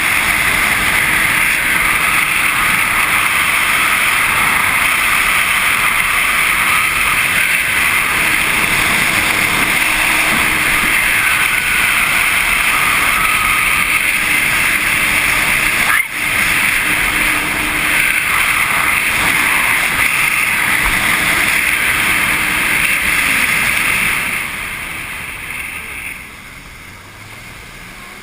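Jet ski running at speed: a steady engine note under heavy wind and water rush, with a momentary dropout about halfway through. Near the end the engine note falls and the noise dies down as the ride slows.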